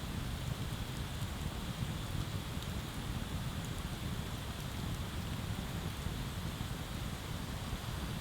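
Open bonfire burning with a steady low rumble and hiss, with an occasional faint crackle.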